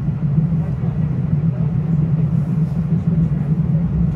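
Steady low rumble and hum of a moving Metro-North commuter train, heard from inside the passenger car.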